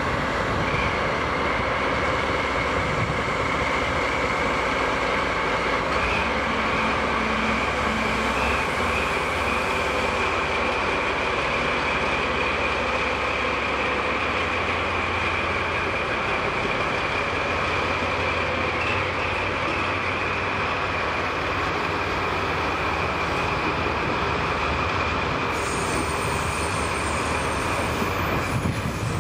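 A DD51 diesel-hydraulic locomotive hauls a set of unpowered EMU cars slowly out of the station. The train rolls past with a steady rail rumble, and a high-pitched wheel squeal is held under it almost the whole time.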